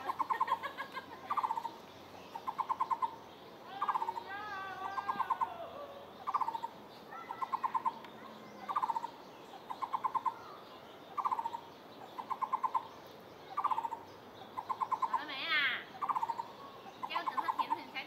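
A bird calling over and over: a short note followed by a quick trill of hollow notes, the pair repeated about every second and a half. Other birds give wavering and rising calls in between, most clearly about four seconds in and near the end.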